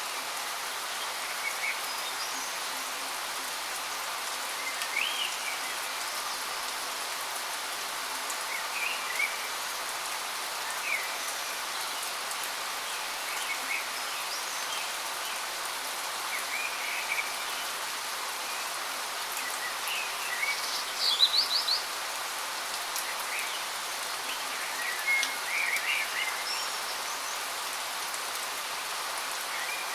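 Waterfall's steady rush of falling water, with birds chirping here and there over it in short calls, a louder flurry of chirps about two-thirds of the way through.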